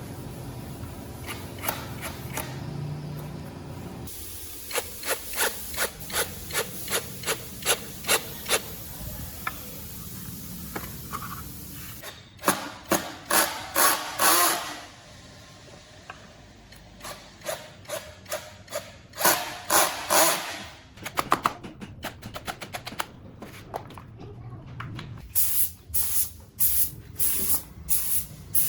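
Runs of short, repeated rubbing or scraping strokes from hand work on the boat, several strokes a second, stopping and starting in separate runs.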